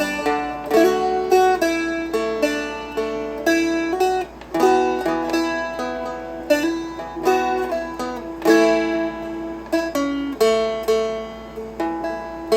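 Seagull Merlin M4, a four-string dulcimer-style fretted instrument, played with a pick: a melody line of single plucked notes mixed with light strums, the notes ringing over one another.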